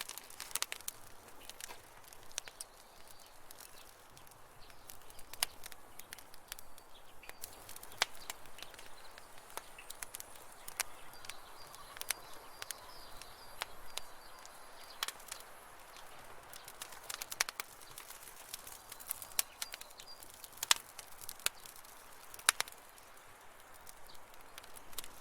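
Wood campfire burning, crackling and popping in irregular sharp snaps over a soft hiss.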